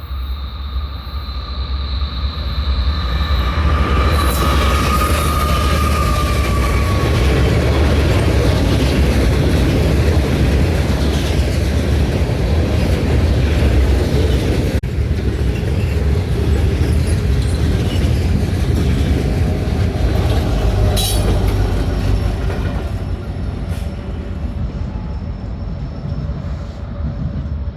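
Norfolk Southern freight train rolling past: a steady rumble and rattle of wheels on rail, with high wheel squeal in the first several seconds. It grows louder over the first few seconds and eases off after about twenty seconds.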